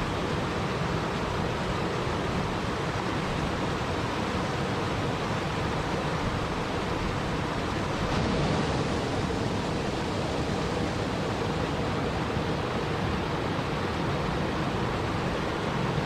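Steady, unbroken rushing of water, swelling slightly about halfway through.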